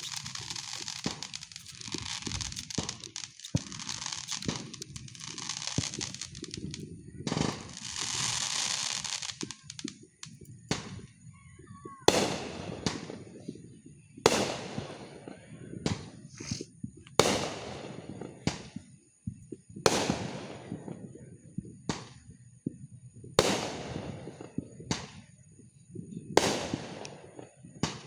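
Fireworks going off: a dense run of crackling for the first ten seconds or so, then single bangs every couple of seconds, each trailing off in an echo.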